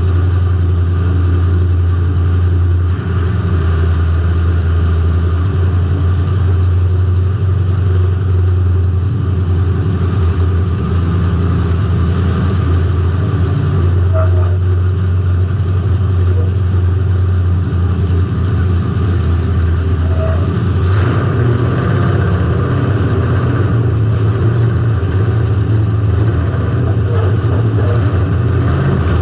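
Demolition derby car's engine running loud and steady, heard from the onboard camera, its pitch shifting a little as the throttle changes, with a few faint knocks.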